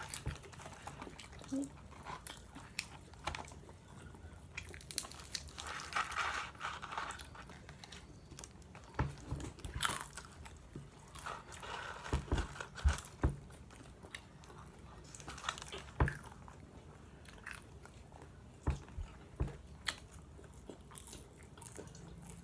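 Close-up eating sounds of fast food: crunchy bites and chewing, with scattered sharp clicks and two longer crunching stretches, near the middle and about halfway through the second half.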